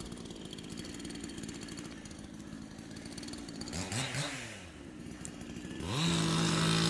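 Chainsaw engine idling, blipped up and down about four seconds in, then revved to high speed and held there near the end.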